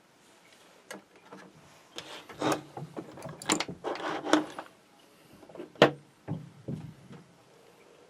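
Handling noise at a workbench: a string of light clicks and knocks with rustling in between, the sharpest click about six seconds in, as small tools and wire are picked up and set down.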